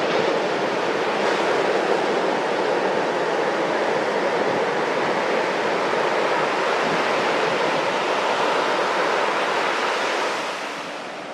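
Pacific Ocean surf: a steady rush of waves breaking and washing up the beach, easing slightly near the end.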